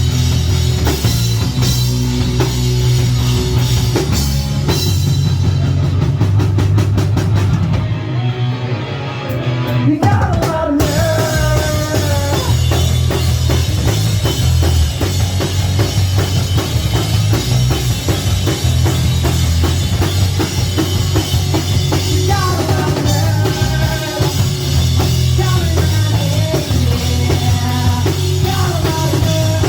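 Live rock band playing an instrumental passage with a full drum kit and heavy bass. About eight seconds in the cymbals drop out briefly, then a melodic lead line with bending notes comes in over the band.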